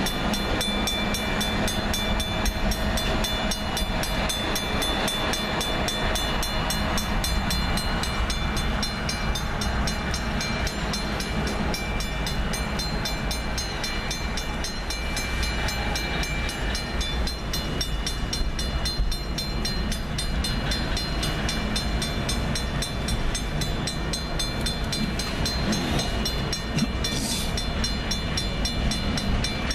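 Container freight train rolling past a grade crossing, a steady rumble of the cars, with the crossing bell ringing in an even repeated rhythm. A short hiss near the end.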